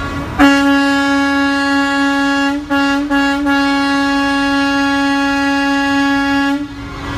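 Semi truck's air horn blown in one long single-note blast of about six seconds, broken briefly a couple of times near the middle.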